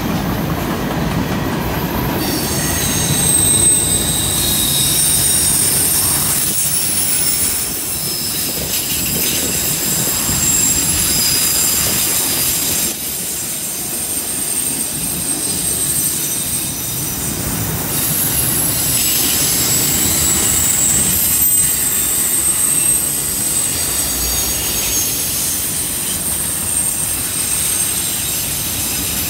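Freight train cars rolling past on a curve: a steady rumble of wheels on rail, with high-pitched wheel flange squeal that swells and fades several times as the cars take the curve.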